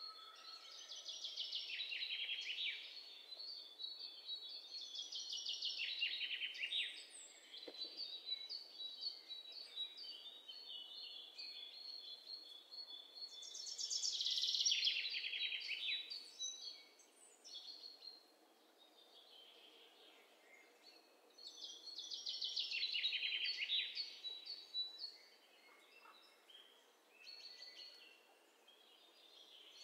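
Songbird singing: phrases of rapid trills that slide downward in pitch, each about two seconds long, repeated several times with pauses between, over a thin steady high tone.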